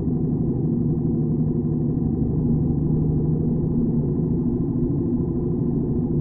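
BMW R75's 745 cc flat-twin engine running at a steady speed under way.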